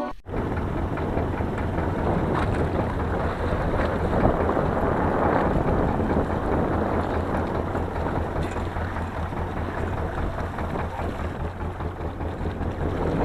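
Strong wind buffeting the microphone, with a steady low rumble underneath.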